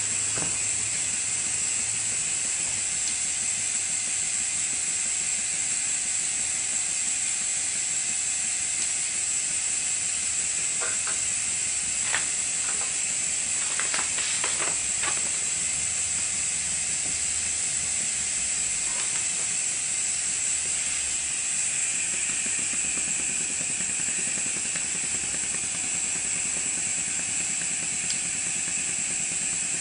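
Maxwell Hemmens model colliery steam engine running on compressed air: a steady hiss of air with the light mechanical clatter of the running engine. A few sharp clicks come about halfway through.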